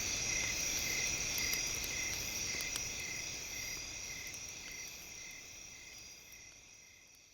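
Campfire crackling, with sharp scattered pops, over a steady chorus of chirping insects pulsing about twice a second. The whole mix fades out steadily over the last few seconds.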